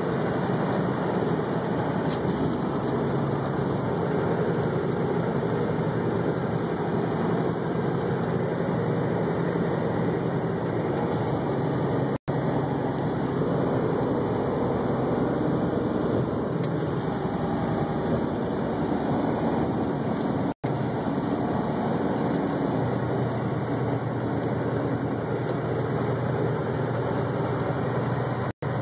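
Steady vehicle and road noise with a low rumble, broken by three very brief drops to silence, a little over 12 seconds in, about 20 seconds in, and near the end.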